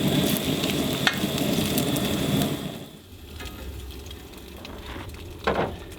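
Eggs frying in a pan, sizzling and crackling; the sizzle drops away about three seconds in. A single short knock near the end.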